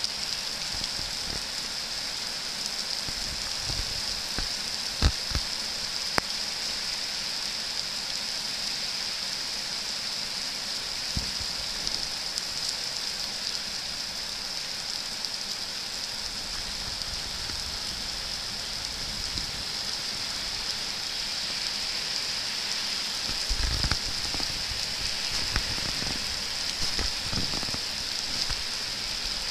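Heavy rain pouring onto a wet street, a steady hiss, with a few sharp clicks of drops in the first half and several short low thumps near the end.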